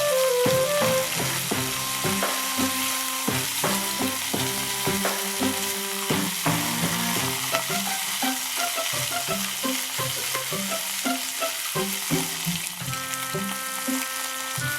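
Chicken thigh steak frying in a cast-iron skillet: a steady sizzle with frequent small pops and spatters of fat.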